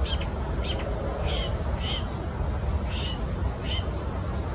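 Marsh warbler singing: a string of short, varied chirped notes about once or twice a second, with a quick run of thin, falling strokes near the end. A steady low rumble runs underneath.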